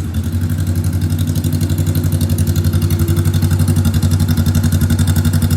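Honda Rebel 500's 471 cc parallel-twin engine starting up at the very beginning and settling into a steady, evenly pulsing idle through a custom aftermarket exhaust.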